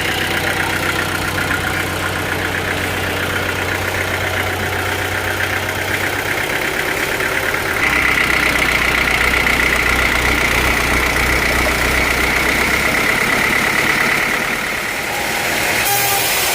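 A sawmill's engine running steadily. About eight seconds in, its note drops and gets a little louder, and a high whine joins it for several seconds before fading.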